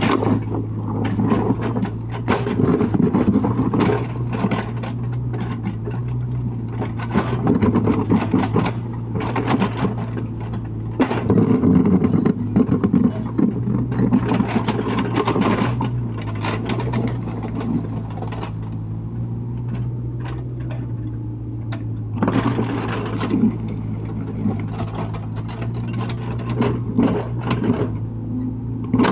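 Mini excavator's diesel engine running steadily, with repeated noisy stretches of scraping and clattering every few seconds as the machine works.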